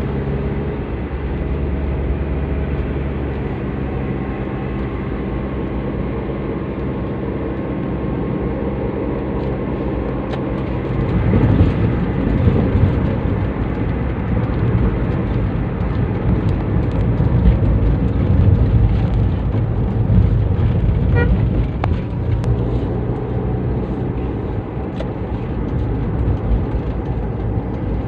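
Toyota Avanza's four-cylinder engine running through a custom exhaust while driving: a steady drone at first, turning louder and rougher about 11 seconds in.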